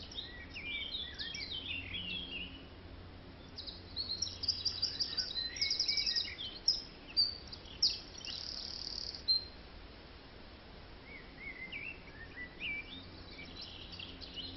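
Birds singing and chirping, with rapid trills and short whistled notes from several birds; the song is busiest in the middle, thins out for a couple of seconds, then picks up again near the end.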